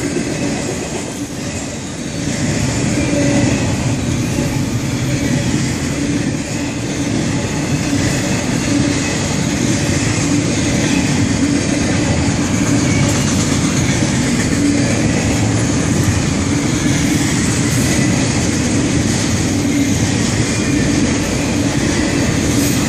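Florida East Coast Railway freight train's cars rolling steadily past: a continuous rumble of steel wheels on rail.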